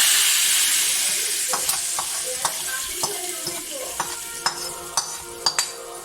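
Hot oil tempering of fenugreek, curry leaves and onion poured into a pot of chicken curry: a loud sizzle that starts abruptly and fades over several seconds, with a spoon clinking against the pot as it is stirred.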